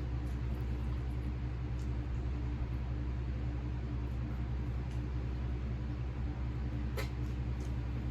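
Steady low background hum with one sharp click about seven seconds in.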